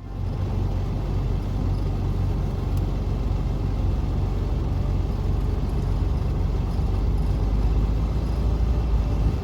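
Semi-truck diesel engine idling with a steady low rumble, swelling slightly near the end.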